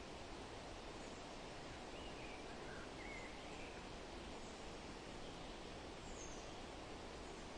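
Steady wind rustling through forest leaves, with a few faint bird chirps about two to three seconds in and one brief high chirp near six seconds.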